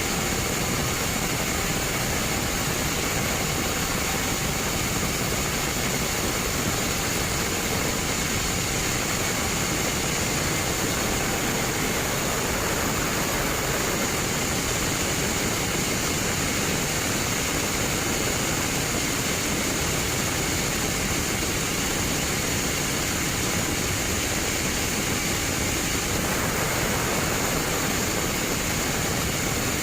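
Sawmill bandsaw running, a steady mechanical noise with a constant high hiss, changing slightly near the end.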